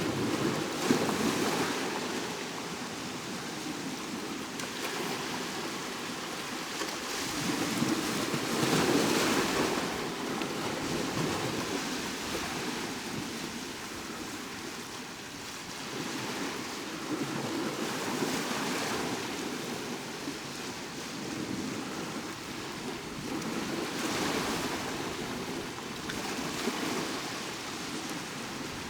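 Sea waves breaking on the shore: a steady wash of surf that swells into a louder breaking wave about every seven or eight seconds.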